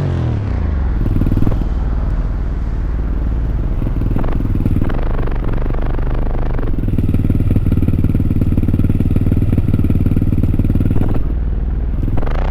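Dirt bike engine running at low revs, with a steady low engine note. It rises briefly at the very end.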